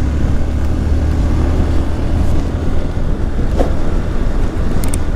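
Motorcycle engine running steadily under way, with wind buffeting the microphone as a heavy low rumble.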